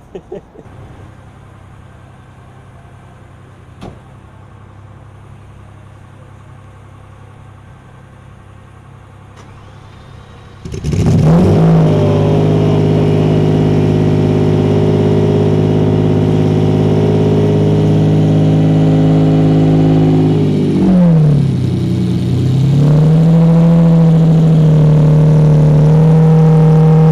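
Car engine idling quietly, then suddenly revved hard about eleven seconds in and held at high revs. It drops back briefly about two-thirds of the way through, then climbs and holds high again.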